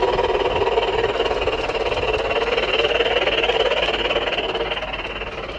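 A motor running steadily with a constant hum and whine, easing off slightly near the end.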